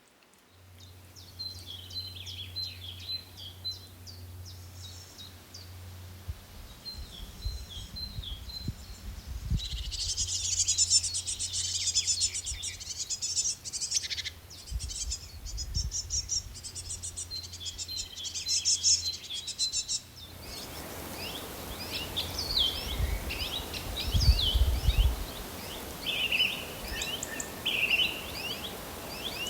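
Birds chirping and singing, many short calls overlapping, over outdoor background noise. A low steady hum runs under the first two-thirds, with a few low thumps, and the background hiss gets louder about twenty seconds in.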